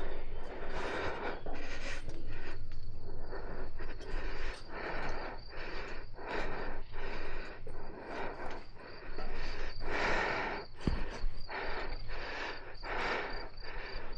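A person panting heavily, about two breaths a second, with insects chirping steadily in the background and a single low thump near the end.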